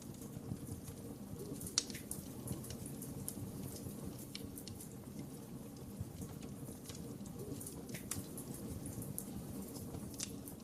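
Wood fire burning with a low steady rumble and irregular sharp crackles and pops, the loudest pop about two seconds in.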